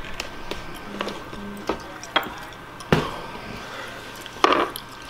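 Mouth clicks and chewing noises from working on a tough gummy candy snake, with scattered small clicks, a sharp knock about three seconds in and a short vocal sound near the end.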